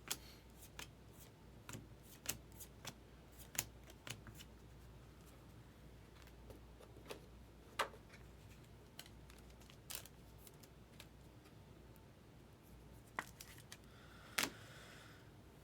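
Baseball trading cards being handled and flipped through by hand: faint, scattered flicks and taps of card stock, with a brief, slightly louder rustle near the end.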